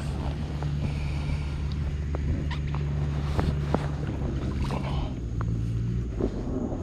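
Boat engine running steadily at low revs, its pitch shifting about five seconds in, with a few light clicks and knocks over it.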